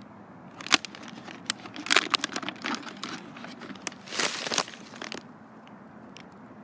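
Cookie packaging crinkling and tearing as it is opened: sharp crackles and rustles for about five seconds, then it stops.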